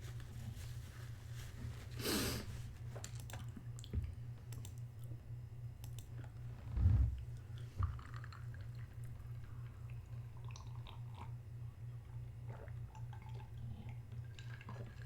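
A person chewing food, with small clicks, a brief rustling noise about two seconds in and a dull thump about seven seconds in, over a steady low hum.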